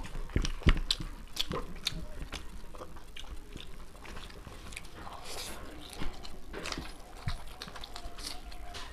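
Close-miked chewing and mouth noises of two people eating fried rice and chowmein with their hands, with many short sharp clicks scattered throughout.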